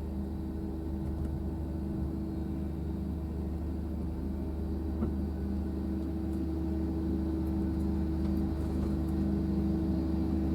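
Steady low drone of a diesel train, with a constant humming tone over it, slowly growing a little louder.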